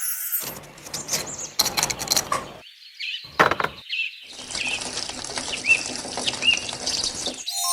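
Bird chirps, a few short calls about a second apart, over a rushing noise in several stretches.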